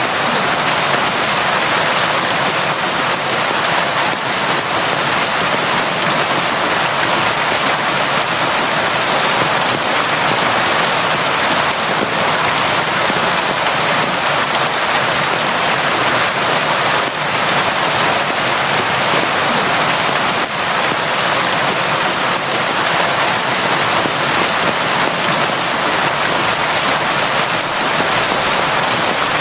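Steady, heavy rain falling in an even, dense hiss with no let-up and no separate drops standing out.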